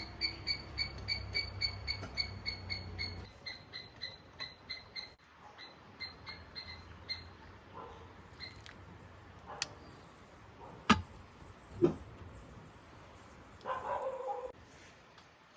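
An animal call: a rapid series of short, high chirps, about three or four a second, that fades out about seven seconds in. A few sharp knocks follow, and a brief lower pitched call comes near the end.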